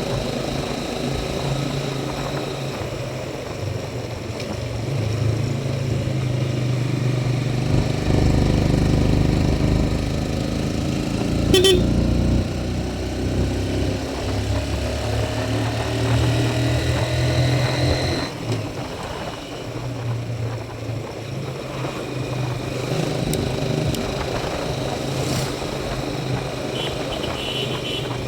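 Motorcycle engine running while riding, its pitch stepping up and down with the throttle. A louder low rumble comes between about 8 and 12 seconds in, with a short sharp click near the middle.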